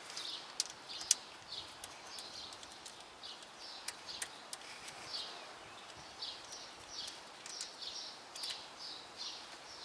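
A small bird chirping over and over, about twice a second, with scattered light clicks from parts being handled.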